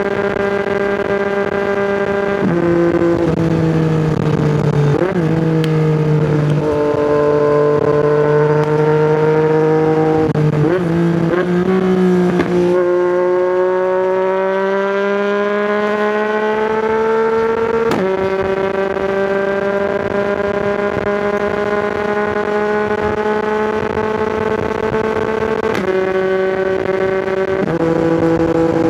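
Yamaha MT-09's three-cylinder engine through an Akrapovic exhaust, heard from the riding position, pulling along under way. The engine note steps in pitch at several gear changes and climbs slowly in between.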